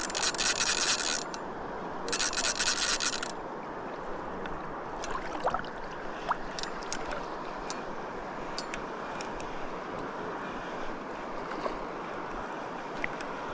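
Fishing reel ratcheting in two bursts of about a second each while a fish is played, over a steady rush of water with a few small clicks.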